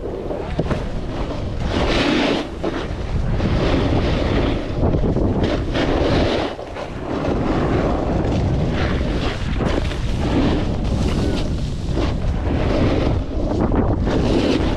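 Wind rushing over the microphone while snowboarding downhill, mixed with the board sliding through snow. The noise swells and eases every couple of seconds as the rider turns.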